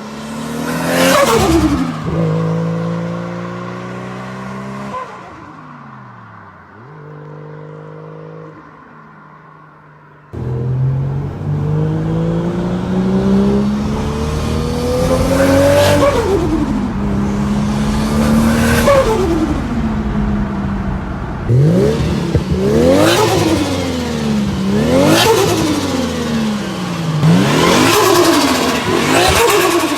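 Turbocharged Nissan Skyline with a GT3076R top-mount turbo and a 4-inch straight stainless pipe open to an HKS filter, revved again and again. The first third is quieter with revs falling, then it is much louder with long rising pulls and a fast run of short blips near the end, and turbo flutter comes as each rev drops off.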